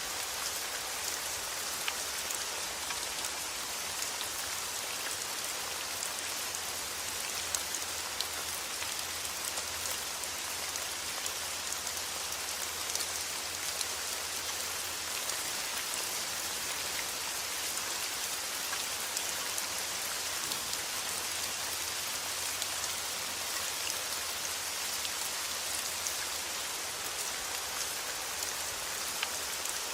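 Steady rain: an even hiss of falling rain with many separate drops ticking through it, and a faint low rumble underneath.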